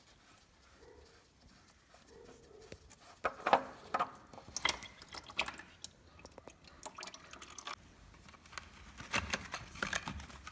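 Engine oil draining from a Fiat 500 1.2's sump into a catch container, heard as irregular drips and small knocks that start about three seconds in after a quiet start.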